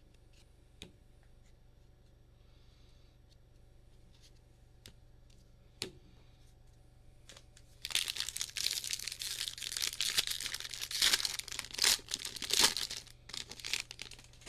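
A trading-card pack wrapper being torn open and crinkled: a few faint clicks, then about eight seconds in a loud crackling tear that goes on for some five seconds.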